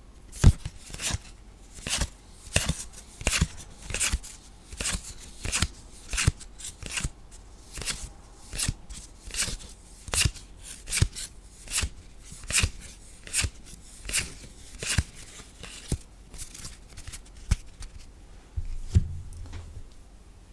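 Trading cards being flipped through one at a time, a crisp card-on-card snap about once or twice a second. A duller thump near the end.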